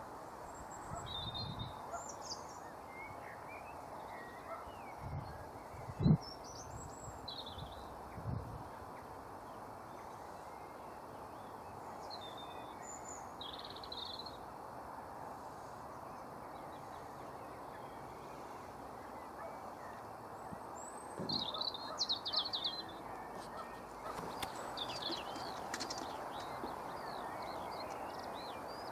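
Short high chirps and calls, scattered and bunched together about three quarters of the way through, over a steady hiss, with a few dull knocks. The uploader wonders whether these are the first sounds from barn owl chicks.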